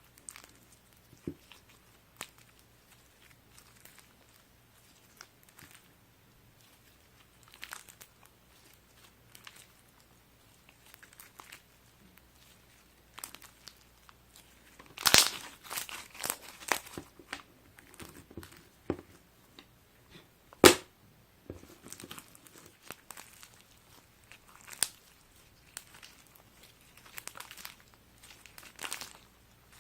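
Slime being squeezed and stretched by hand, giving scattered crackles and clicks. About halfway there is a burst of louder crackling, and a few seconds later a single sharp pop.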